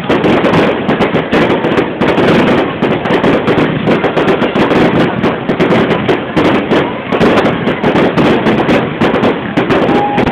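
Fireworks going off in a dense, unbroken barrage: many bangs and crackles a second, loud throughout.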